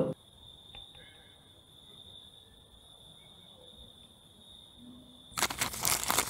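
Crickets trilling in a faint, steady high drone of night ambience. Near the end comes a loud rough rustling noise lasting about a second and a half.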